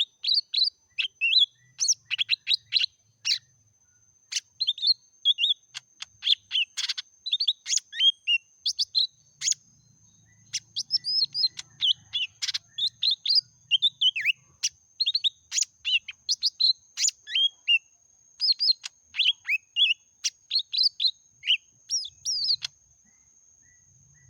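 A leafbird singing a fast, unbroken stream of sharp chirps and quick whistled notes, stopping near the end, over a faint steady high-pitched tone.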